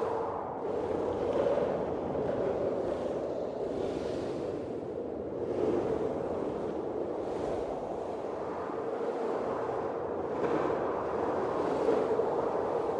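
Blizzard wind blowing steadily, with gusts swelling and fading every second or two.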